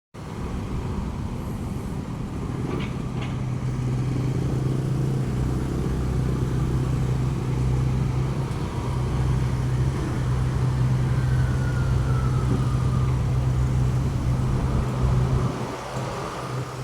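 Motor vehicle engine running steadily while driving, a constant low hum, with two short high chirps about three seconds in.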